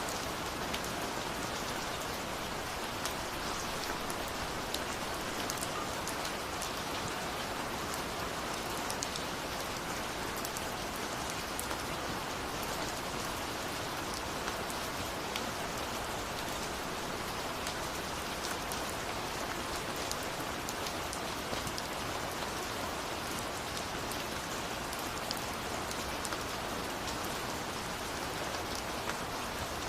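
Steady rain falling on a surface, with many individual drops pattering throughout.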